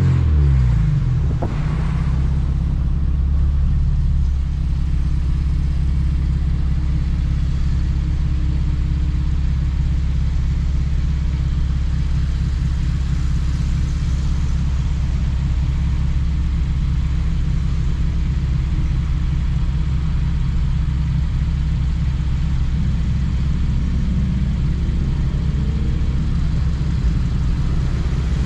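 2007 Honda Civic Si's 2.0-litre four-cylinder engine with revs dropping sharply in the first second, then a steady low drone at constant engine speed, the car holding a steady pace.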